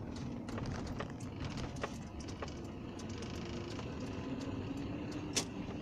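Car on the move with a steady low rumble and many small clicks and rattles, and one sharper knock near the end: the kind of knock or squeak the owner is trying to pin down.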